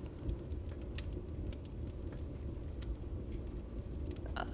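Fireplace crackling with sparse, scattered pops over a steady low rain ambience.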